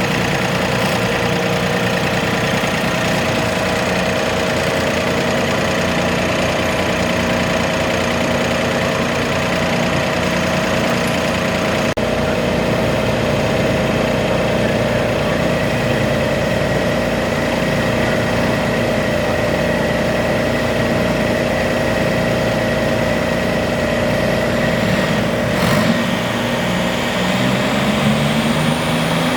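Garden pulling tractor engine running steadily at a fairly constant speed, then revving up with a rising pitch near the end.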